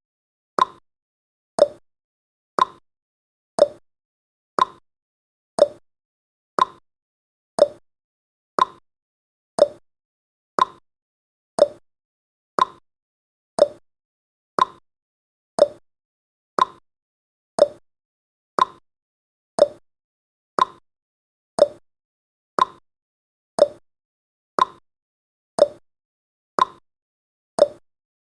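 Countdown timer's ticking sound effect: one short, sharp tick each second, evenly spaced.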